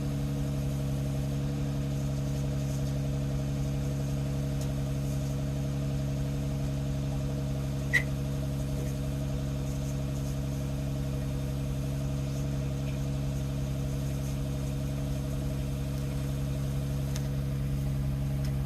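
Nissan V36 Skyline 250GT's 2.5-litre V6 idling steadily through the stock muffler. A single brief click about eight seconds in.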